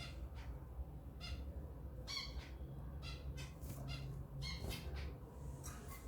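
African lovebirds chirping: short, sharp calls repeated irregularly, about two a second, over a low steady hum.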